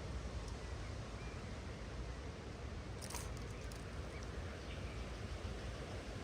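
Steady outdoor background noise with a few faint, short bird chirps, and a brief run of sharp clicks about three seconds in.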